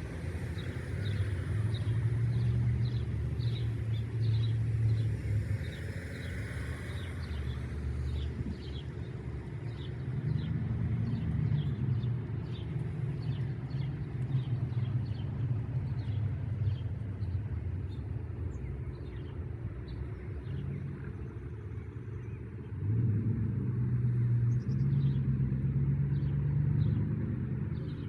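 Small birds chirping over and over, short high chirps about one or two a second, over a loud low rumble that swells up about ten seconds in and again near the end.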